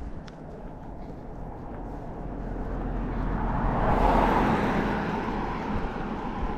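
A passing vehicle: a rush of noise that builds to a peak about four seconds in and then fades.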